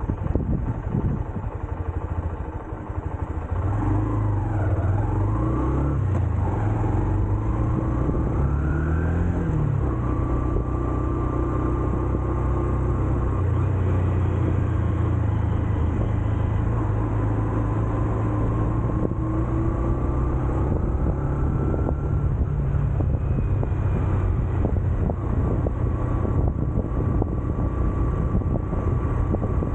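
Honda CB125F's single-cylinder engine under way: the revs rise and fall several times over the first ten seconds or so, then hold steady.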